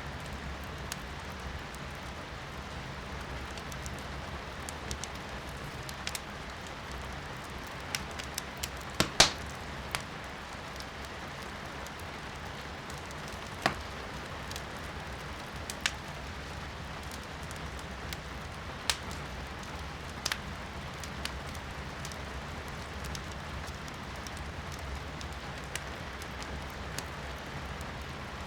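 Firewood crackling in a fireplace, with sharp pops scattered irregularly, the loudest few about nine seconds in, over a steady hiss of rain heard from indoors.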